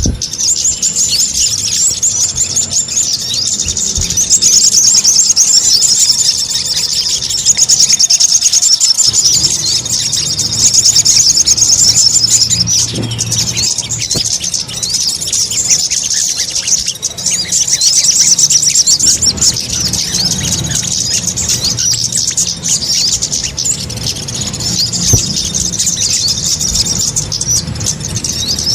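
Sogok ontong (spiderhunter) calling as a bird-lure recording: a dense, continuous stream of rapid, high-pitched chirps, with a low rumble in the background.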